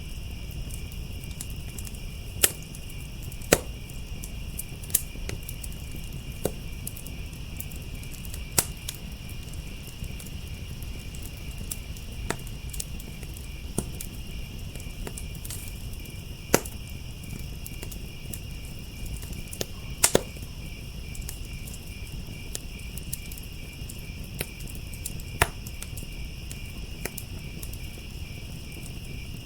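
Wood fire crackling, with irregular sharp pops, a few of them loud, over a low steady rumble, while crickets trill steadily in the background.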